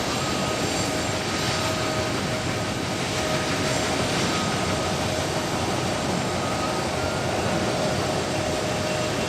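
Starlux Airbus A330-900's Rolls-Royce Trent 7000 jet engines during take-off: a steady roar with a steady whine running through it.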